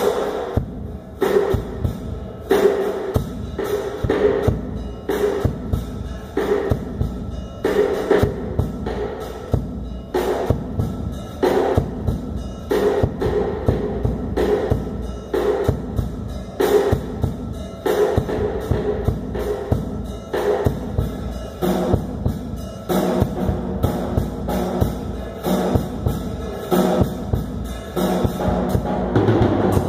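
Drum kit playing a steady, even rhythm, with sharp strikes throughout and a pitched drum ring underneath.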